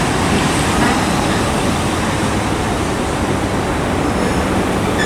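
A Class 444 Desiro electric multiple unit pulling into the platform, a steady rumble of wheels and running gear.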